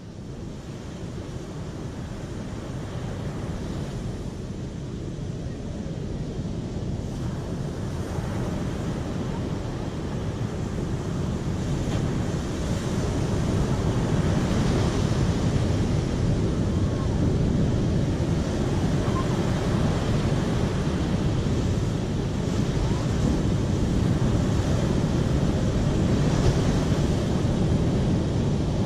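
Steady rushing of water, a dense even noise that swells in loudness over the first dozen seconds and then holds steady.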